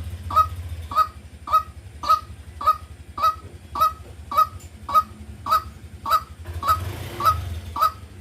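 White-breasted waterhen calling a short, honking note over and over, about two calls a second and very evenly spaced, over a steady low hum.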